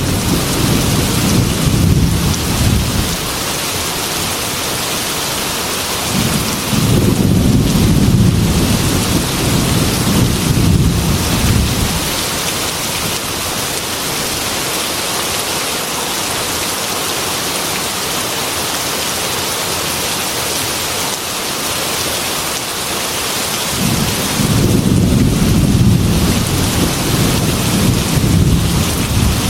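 Heavy rain pouring steadily on a metal roof, with thunder rolling in low rumbles three times: at the start, again several seconds in, and once more near the end.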